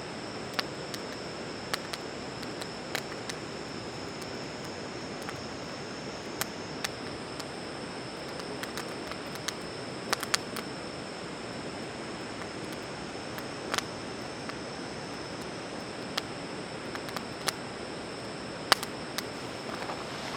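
Wood campfire crackling, with sharp irregular pops and snaps over a steady hiss, and a steady high-pitched insect trill behind it.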